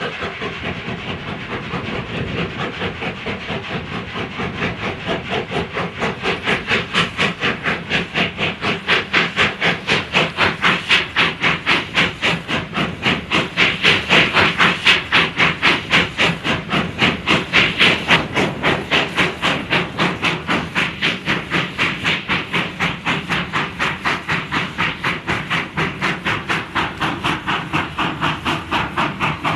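Steam tank locomotive working steadily, its exhaust chuffing in an even beat of about three a second with steam hiss, loudest around the middle and easing a little toward the end.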